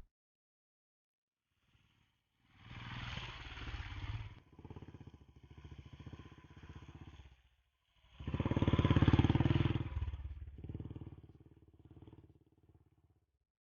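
Motorcycle engines running after about two seconds of silence: a first louder stretch, a quieter spell, then the loudest passage about two-thirds through, fading away near the end.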